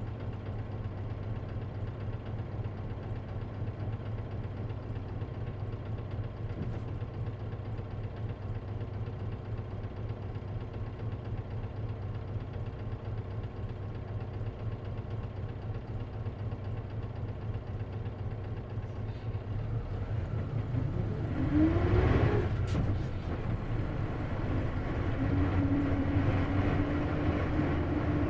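Isuzu KC-LV380N city bus engine idling steadily, heard from inside the bus. About twenty seconds in it grows louder as the bus pulls away, with a short rising whine and a sharp click. A steady whine then holds near the end.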